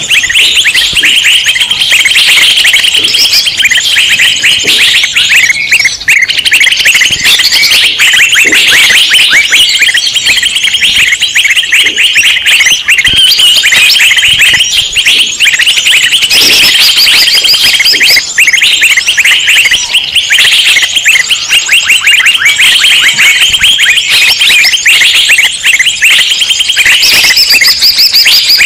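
Dense, loud chorus of many small songbirds chirping and chattering over one another without pause. This is the noisy 'ribut' flock chatter used as a lure to draw wild birds in.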